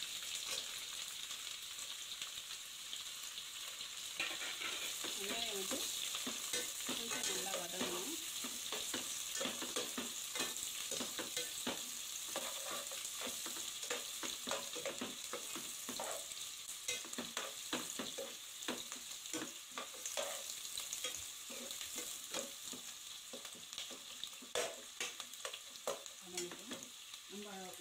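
Sliced onions frying in hot oil in a pot, a steady sizzle, with a slotted metal spatula scraping and clicking against the pot as they are stirred.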